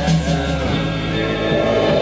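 Rock band playing live, with held guitar and bass notes in a psychedelic-rock style.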